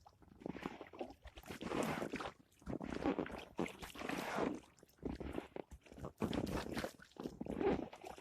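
Kayak paddle strokes in calm loch water: a splashing swell about once a second as the blades dip and pull.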